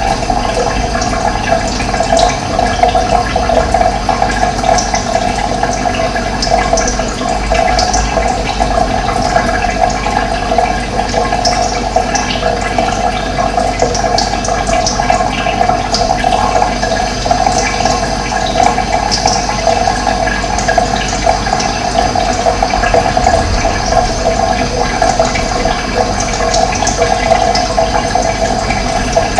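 Running water, a steady loud rush, with occasional short bird chirps over it.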